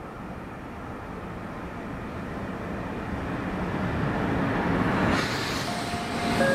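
Passenger train hauled by two electric locomotives approaching and passing close by. A rumble grows steadily louder, and wheel-on-rail noise swells about five seconds in as the locomotives go past. A steady whine from them joins near the end.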